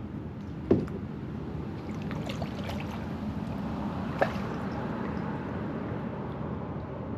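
Kayak paddling: paddle strokes with water dripping and trickling, and two sharp knocks of the paddle against the kayak hull, about a second in and again about four seconds in, the first louder.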